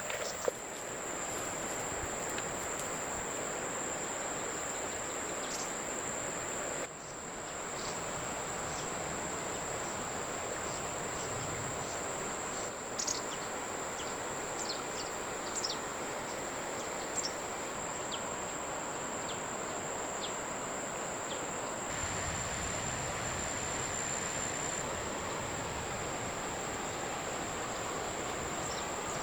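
Outdoor ambience of insects holding one steady high-pitched note over an even hiss, with a few short bird chirps around the middle. The background changes abruptly twice, at edits.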